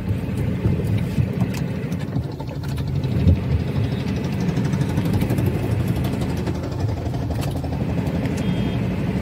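Small car's engine running at idle, heard from inside the cabin, with a brief thump about three seconds in.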